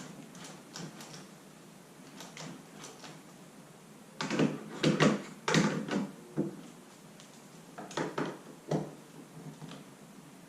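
Clicks and knocks of hand work on a kayak rudder's mounting pin and screw with a screwdriver. A cluster of louder knocks comes about four to six seconds in, and two more come near eight and nine seconds.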